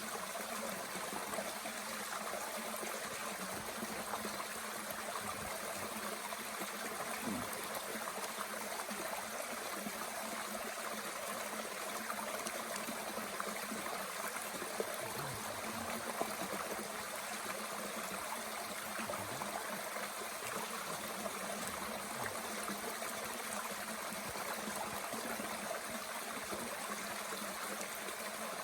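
Mountain stream running steadily, with a few faint pops now and then from a small wood fire burning in a Bushbox twig stove.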